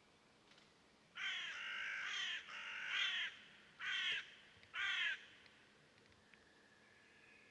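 A crow cawing four times: two long, drawn-out caws and then two short ones.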